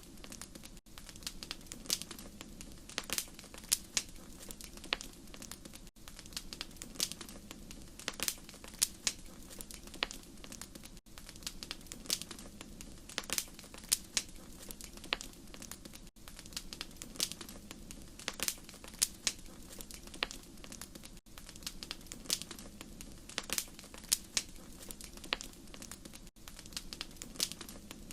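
Wood fire crackling in a fireplace: irregular sharp pops and snaps over a steady low rumble of the flames. The same stretch of sound repeats about every five seconds, with a tiny gap at each repeat.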